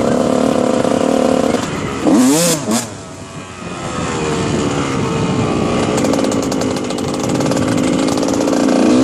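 2001 Honda CR125 two-stroke single-cylinder dirt bike engine being ridden: held at high revs, a quick rev up and back down with a brief loud rush of noise about two seconds in, a dip in level around three seconds, then revving back up and climbing again toward the end.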